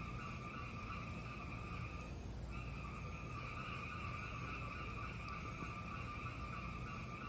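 Fireplace fire burning with a steady low rumble and a constant hiss, with only a few faint crackles. The hiss drops out briefly a little over two seconds in.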